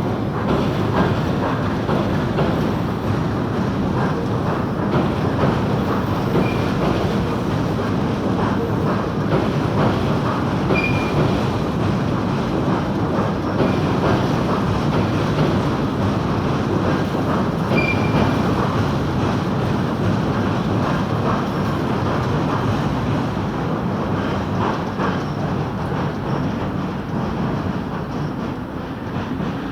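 Tobu Railway train running on the tracks, a steady rumble with wheels clacking over rail joints. There are two brief high-pitched squeals partway through, and the sound eases slightly near the end.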